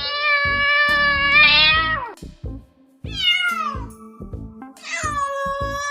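A cat meowing three times: a long meow that falls in pitch at its end, a short falling meow, then another long meow. Background music with a steady beat plays under them.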